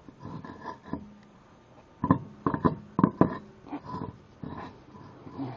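A minivan's road wheel knocking and scraping against the hub studs as it is shifted by hand to line its lug holes up with the studs, with a cluster of sharp knocks about two to three seconds in.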